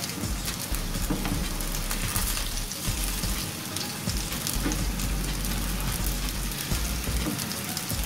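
Flour-battered chicken pieces sizzling in shallow hot oil in a nonstick frying pan, with light clicks and scrapes of a metal spatula and wooden chopsticks as the pieces are turned over.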